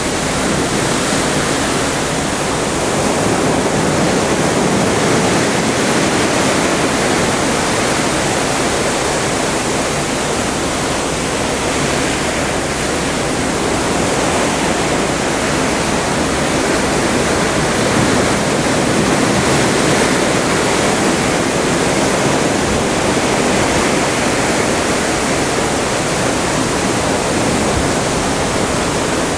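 Atlantic sea water rushing and churning past a cruise ship under way: a loud, steady hiss and rush that swells gently and eases again every few seconds.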